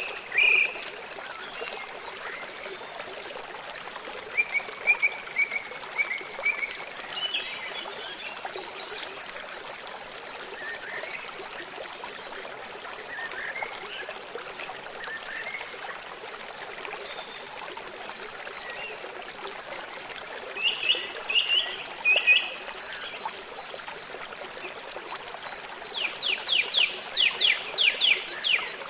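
A stream flowing steadily, with small birds calling in short bursts of chirps. Near the end, a quick run of about ten sharp notes.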